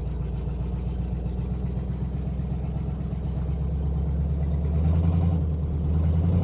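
1970 Oldsmobile Delta 88's V8 engine running at a steady idle, its revs rising a little about four and a half seconds in.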